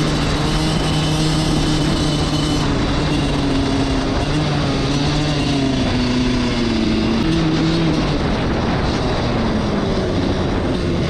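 Suzuki RM85 85cc two-stroke dirt bike engine running while being ridden. The engine note holds fairly steady, then falls and rises a few times in the second half as the throttle changes.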